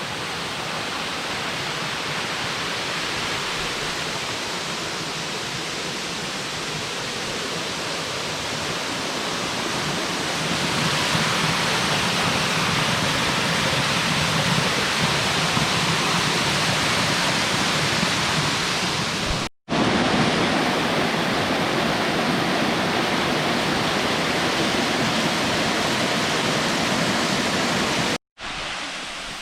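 Rushing water of a mountain cascade waterfall, a steady full hiss that grows louder about a third of the way in. It cuts out for an instant twice near the end.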